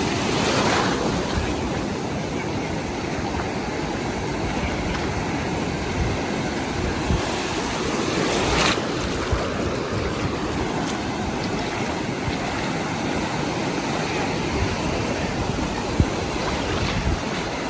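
Ocean surf washing onto the beach, a steady rush of water with two louder waves breaking, about a second in and again about nine seconds in.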